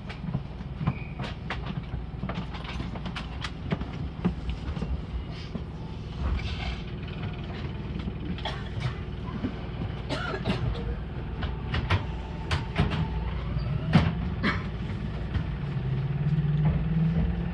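Meitetsu 2000 series electric multiple unit running, heard from inside the car: a steady low rumble with scattered sharp clicks and knocks from the wheels on the track. A low tone rises near the end.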